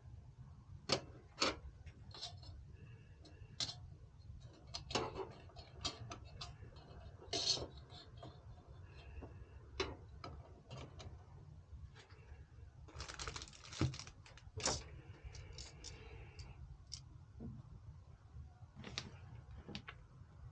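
Irregular clicks and taps, with a few short scrapes or rustles, from hands handling small computer hardware parts, over a steady low hum.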